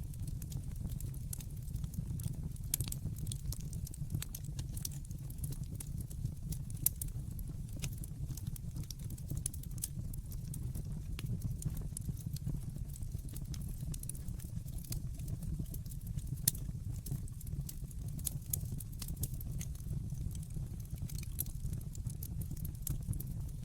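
Wood fire burning in a fireplace, crackling with irregular sharp pops over a steady low rumble of the flames; a couple of louder pops stand out, about seven seconds in and again past the middle.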